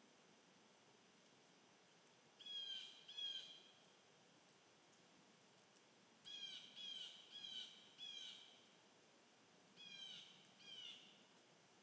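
A bird calling: short downslurred calls repeated in groups of two to four, a few seconds apart, faint over a steady background hiss.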